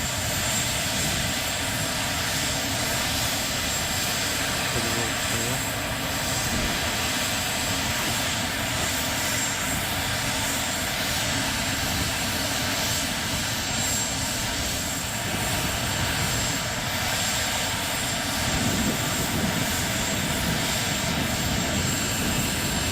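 Mi-26 helicopter's auxiliary power unit, a small gas turbine in the nose, running steadily before the main engines are started: an even turbine roar with a thin, steady high whistle.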